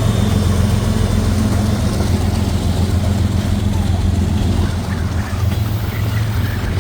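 Diesel freight locomotive engine running steadily close by as the train moves through, a deep continuous rumble, with wind buffeting the microphone.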